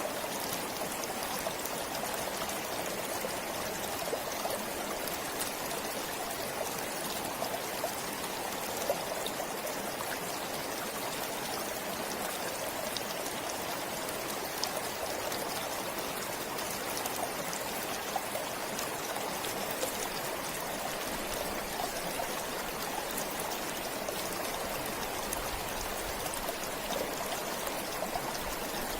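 A forest stream running steadily over stones, a continuous babbling and trickling of water with small splashes here and there.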